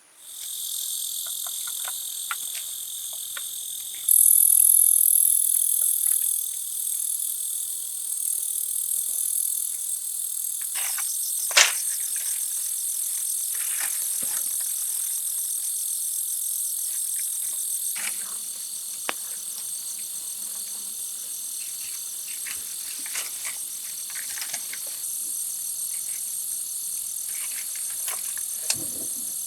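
A steady, high-pitched chorus of forest insects chirring, louder for a couple of seconds about four seconds in. Scattered light clicks and taps sound over it, with one sharp knock about twelve seconds in.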